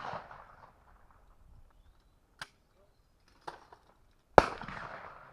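A shotgun shot cracks about four seconds in and rolls away in a long fading echo, after the dying echo of an earlier shot and two short sharp clicks.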